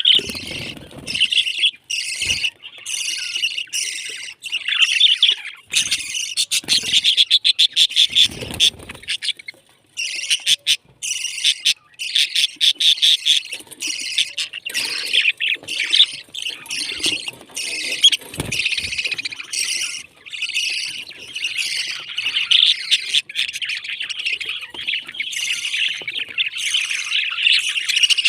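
Pet parrots chirping and chattering continuously in rapid, warbling trills, with a few short knocks mixed in.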